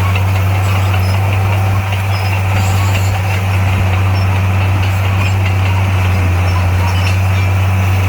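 Heavy construction machine's diesel engine running at a steady speed, a loud, even low hum.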